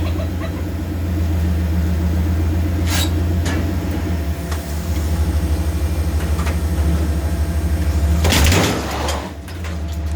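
Pickup truck engine idling with a steady low drone, with a couple of short clicks about three seconds in and a loud noisy burst lasting about a second near the end.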